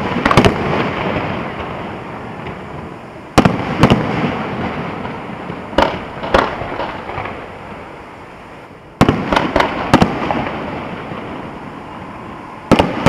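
Fireworks bursting: sharp booms, mostly in pairs about half a second apart, coming every three seconds or so. Each is followed by a fading rumble and crackle.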